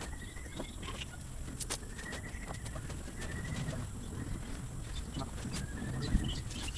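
A bird calling several times with faint, drawn-out whistled notes, over scattered sharp ticks and a low steady rumble.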